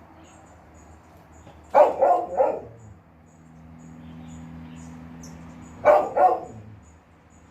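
Dog barking: three quick barks about two seconds in, then two more about six seconds in.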